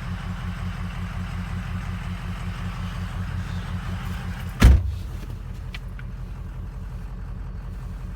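Ford 6.0-litre turbo diesel V8 idling steadily, with one loud thump a little over halfway through, like a truck door being shut, after which the sound turns more muffled and two faint clicks follow.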